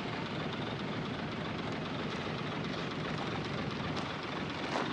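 Heavy diesel earthmoving machinery running steadily, a continuous even rumble and hiss with no change in pace.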